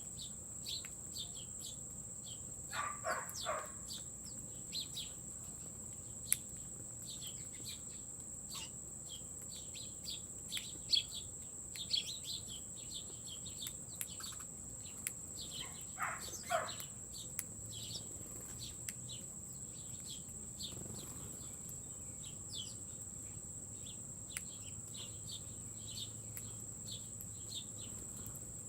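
Small birds chirping, many short high chirps in quick succession, with two longer, harsher calls about three seconds in and again about sixteen seconds in. A steady high thin whine runs underneath.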